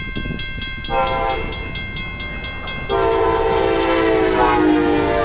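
Grade crossing bell ringing in rapid repeated strikes, then a locomotive's multi-chime air horn sounds about a second in and becomes much louder about three seconds in as the train approaches.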